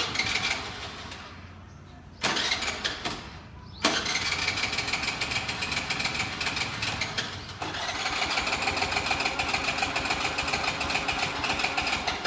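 Scooter's electric starter cranking the engine in four attempts, the last two about four seconds each, with a steady starter whine and rapid rhythmic churning, without the engine catching: a scooter that won't start after sitting unused.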